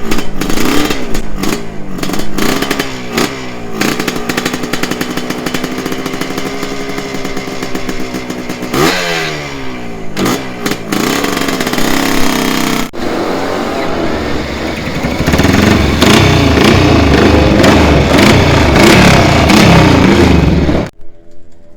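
Classic air-cooled racing motorcycle engines revved in quick blips, then held at a steady speed and blipped again. They run loudest and roughest for the last several seconds before cutting off suddenly.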